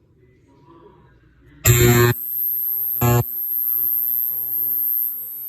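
Ultrasonic machine switched on and running: about a second and a half in, a loud buzzing hum with a steady high whine starts suddenly. It surges louder twice in short bursts, then settles into a steady buzz with the whine.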